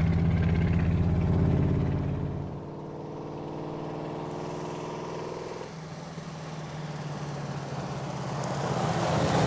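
1951 Allard K-2's Mercury flathead V8 running as the roadster drives along: loud and close at first, then suddenly farther off after about two and a half seconds, and growing louder near the end as the car approaches.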